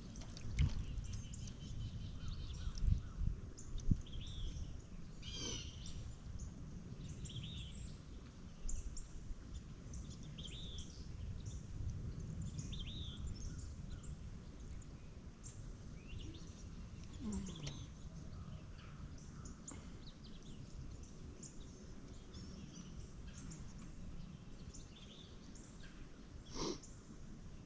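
Wild birds chirping and calling repeatedly over a steady low rumble, with a few low thumps in the first few seconds.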